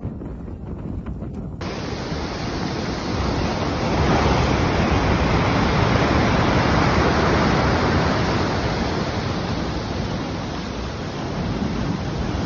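Loud, steady rushing roar of storm wind, with wind buffeting the microphone. It changes abruptly about a second and a half in and grows louder, then holds.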